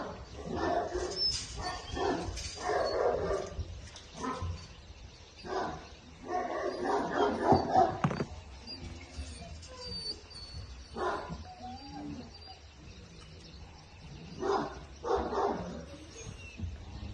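Central Asian Shepherd puppy barking in irregular bursts of short barks, with pauses between them.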